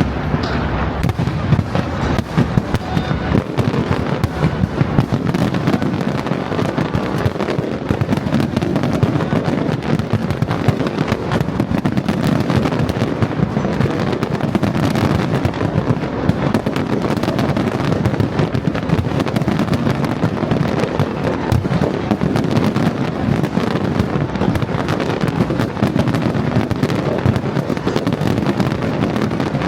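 Fireworks display firing a dense, continuous barrage of rapid bangs.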